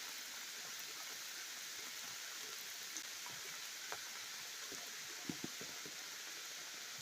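Heavy rain falling: a steady hiss with scattered individual drops ticking, a couple of them louder midway.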